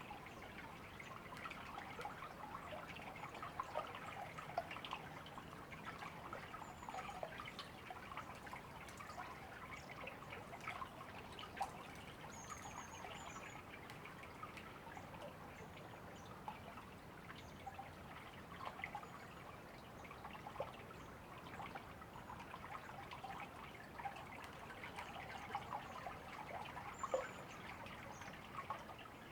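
Shallow river babbling and trickling steadily over stones, with a few faint, short high bird chirps now and then.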